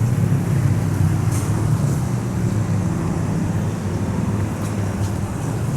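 Steady low rumble and hum of a diesel train, with no distinct clicks or changes in pitch.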